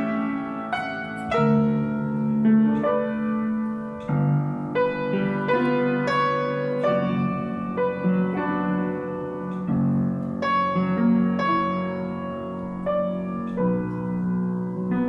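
Solo piano playing a slow, lyrical romance: a singing melody over held low chords, with notes struck in a steady flow.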